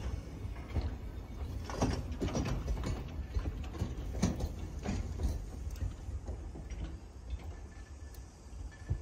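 Freight train's container flatcars rolling slowly past on the rails with a low rumble, broken by a few short brake or wheel squeals and clanks in the first half as the train slows to arrive. The rumble gets quieter near the end.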